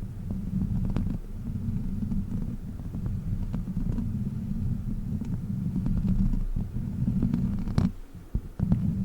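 Close-up rubbing and scratching with a fake witch-finger prop: a dense low rumble with scattered light clicks, which drops away briefly near the end.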